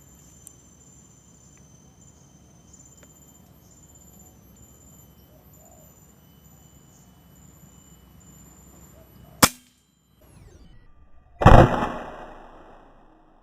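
Quiet outdoor background with an insect chirping in short, regular pulses, then a sharp crack about nine seconds in, and two seconds later a louder crack that fades out over a second or so: shots from a PCP air rifle.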